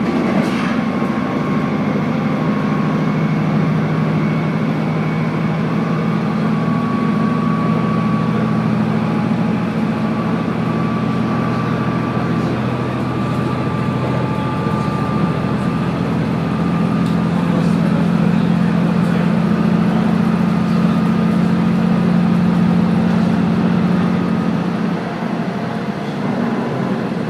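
Diesel railcar of the Kaze-kko joyful train running along the line: a steady low engine drone under rolling wheel-and-rail noise, with a faint whine above it. The drone grows a little louder past the middle and eases near the end.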